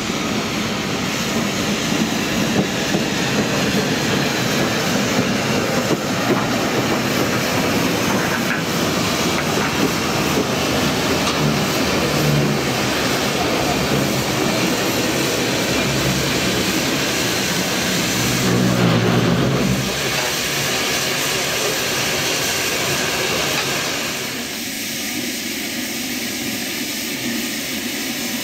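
A train running on the line, a steady rumble of wheels and rails that eases off after about twenty seconds.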